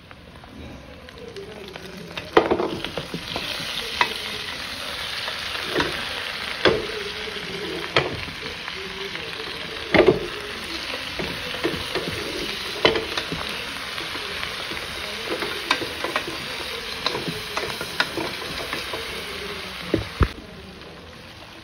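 Pork and tomatoes sizzling in hot fat in a stainless steel pot, the sizzle swelling about two seconds in, while a wooden spoon stirs and knocks against the pot every second or two.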